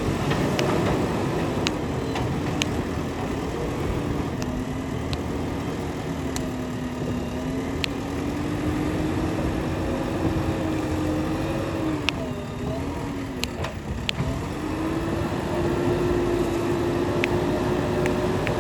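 Diesel engine of a JCB 3DX backhoe loader running under working load, its pitch rising and falling as the machine works, with scattered sharp clicks and knocks.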